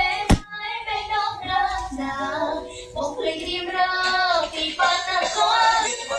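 A high voice singing a melody with long, wavering held notes over music, with a single sharp click at the very start.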